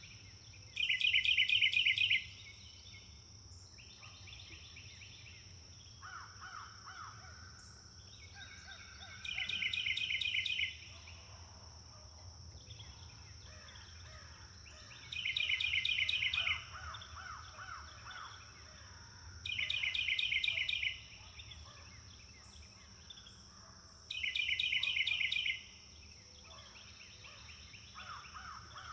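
Forest songbirds singing: one bird gives a loud, fast trilled phrase of about a second and a half five times, with softer calls from other birds in between. A steady high-pitched tone runs underneath.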